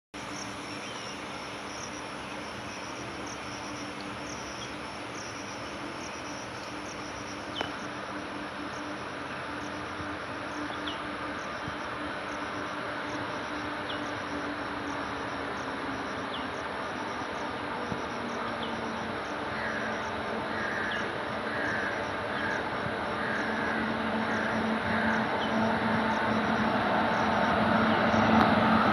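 WAP-5 electric locomotive drawing an express train closer, its running noise and hum growing steadily louder. Faint insect-like ticks repeat at an even pace throughout.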